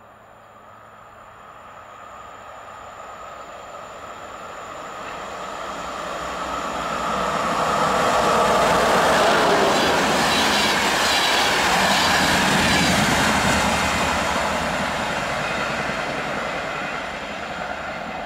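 PKP InterCity express train hauled by an EP09 electric locomotive passing at speed: the rolling and wheel noise grows steadily louder as it approaches, peaks in a loud rush for several seconds around the middle, then fades as the coaches run away.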